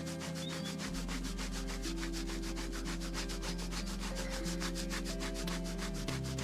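A microfibre strip with Autosol polish rubbing back and forth around a rusty LS crankshaft bearing journal, a fast, even scratchy rubbing, to clean surface rust off the journal. Background music with held low notes plays underneath.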